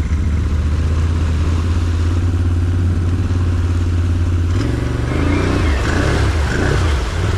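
Off-road vehicle engine running steadily, then revved up and down about halfway through with wavering pitch as the vehicle, stuck again in the mud, tries to power out.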